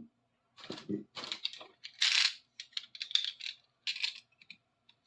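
Short, irregular metal scrapes and clinks from hand work on a large adjustable wrench, as a stuck screw is worked at with a screwdriver. The longest scrape comes about two seconds in.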